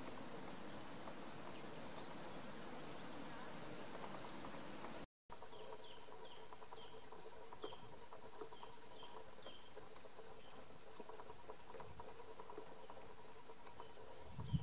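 Outdoor bush ambience. About halfway in, a bird repeats a short high chirp two to three times a second for a few seconds, over a faint steady hum. The sound drops out for a moment just before the chirps begin.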